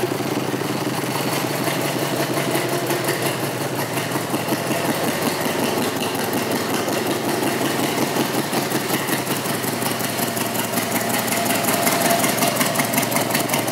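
1997 Harley-Davidson Road King's Evolution 1340 V-twin idling steadily through aftermarket exhaust pipes, with an even, pulsing beat.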